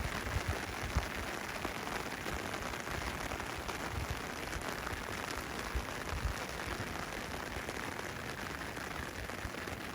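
Heavy rain falling steadily in a summer rainstorm, a dense even hiss, with occasional low thumps.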